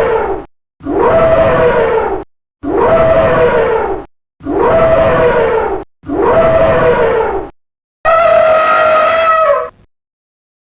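Elephant trumpeting: a run of near-identical brassy trumpet blasts, each about a second and a half long and dropping in pitch at its end, with short silent gaps between them. Near the end comes one longer, steadier blast.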